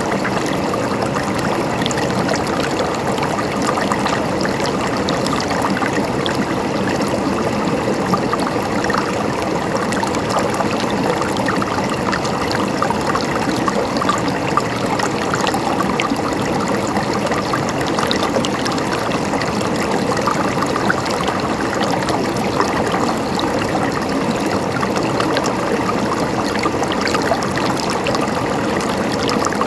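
Flowing water gurgling steadily, an even rush flecked with small splashes and trickles.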